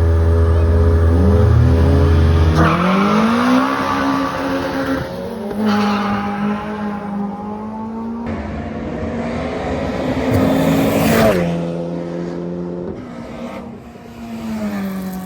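Drag racing cars accelerating hard down the strip, their engines revving up and dropping back at several gear changes. The run is loudest in the first couple of seconds.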